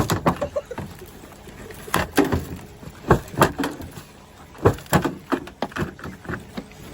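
Hand tools striking a pickup truck's body again and again, a dozen or so irregular sharp bangs and clanks, some ringing briefly.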